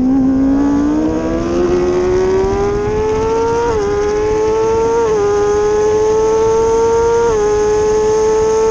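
Kawasaki ZX-6R 636 inline-four engine pulling hard under acceleration, its pitch climbing steadily and dropping sharply three times as the rider clicks up through the gears, with wind rushing past.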